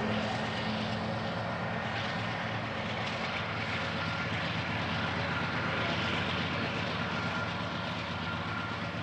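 A train passing close by: a steady rolling rumble with a diesel locomotive's engine hum underneath, and a faint steady whine in the second half.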